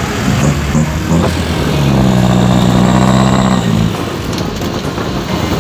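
Truck engine running as it passes, a steady drone that swells about two seconds in and eases off near four seconds.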